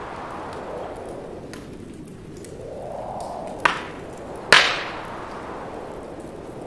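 Wood fire burning in a fireplace, crackling with a few sharp pops, two loud ones about three and a half and four and a half seconds in, the second the loudest. Underneath, wind rushes in gusts that swell and fade.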